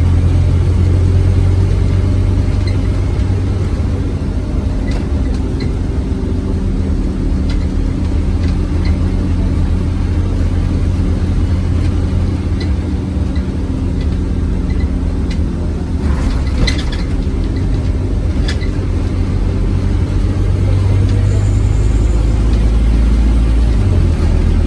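Scania OmniCity single-decker bus engine running under way, heard on board as a steady, loud low drone. Light clicks and rattles come through, with a brief hiss about two-thirds of the way in.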